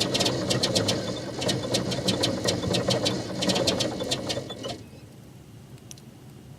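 Old diesel engine running roughly just after a cold start, with an uneven knocking clatter over a low steady engine note. The sound cuts off abruptly about five seconds in.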